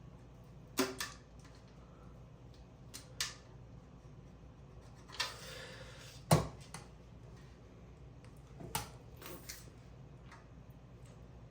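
Handling noises from a fan motor being turned over and examined: scattered clicks and knocks, a scraping rub lasting about a second, and one louder knock about six seconds in.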